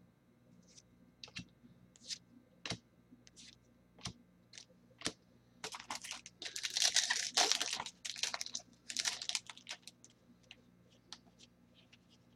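Trading cards and their packaging being handled at close range: scattered light clicks and taps, with a few seconds of papery rustling from about six seconds in.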